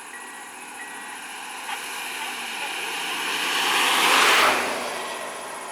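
A rushing, whooshing noise that builds over a few seconds, peaks about four seconds in, then fades quickly.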